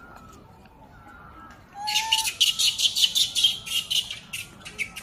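A bird calling a rapid chattering run of short, high chirps, many a second, starting about two seconds in and tailing off near the end.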